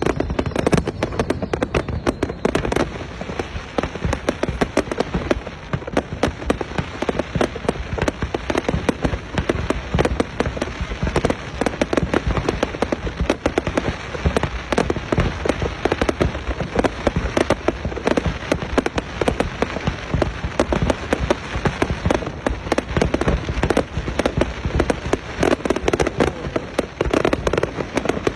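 Fireworks display going off without pause: dense, rapid bangs and crackling of aerial shells bursting.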